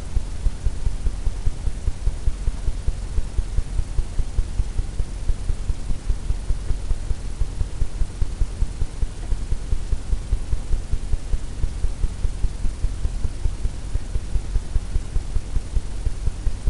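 Steady low hum that throbs evenly about four times a second.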